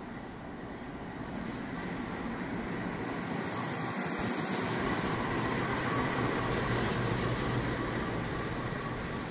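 Diesel-electric passenger locomotive and its coaches running slowly into a station platform, the engine and rolling wheels getting louder as the locomotive passes. A hiss comes in the middle.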